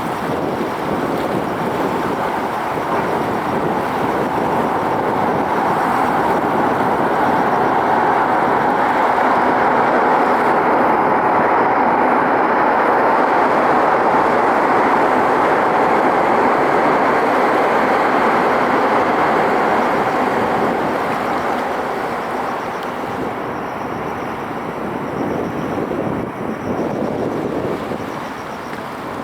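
A train crossing the Tsing Ma Bridge: a steady rushing rumble that builds over the first ten seconds, holds, then fades away after about twenty seconds.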